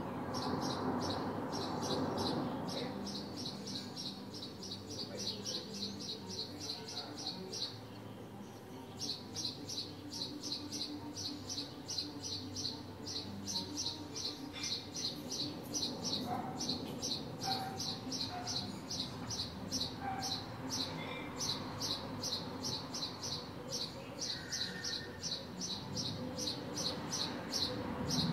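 A small bird chirping in a fast, even series of high chirps, about four or five a second, with a short break about eight seconds in, over a low background hum of the street.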